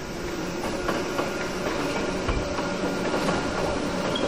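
Hakone Tozan Railway train passing, its wheels clacking over the rail joints over a steady rumble, growing louder in the first second.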